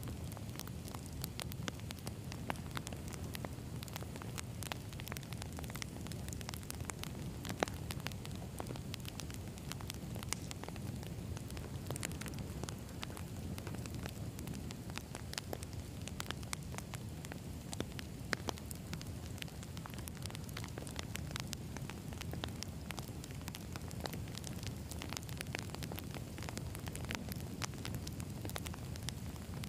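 Wood fire burning steadily: a low, even rumble of flames with constant crackling and scattered sharp pops from the burning logs, a few louder snaps standing out.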